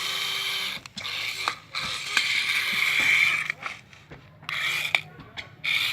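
A small mechanism whirring in short stop-start runs, with sharp clicks and knocks between them.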